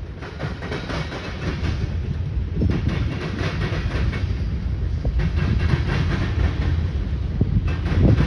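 Manifest freight train rolling past with a steady low rumble and repeated clacks of wheels over the rail joints, getting louder about three seconds in.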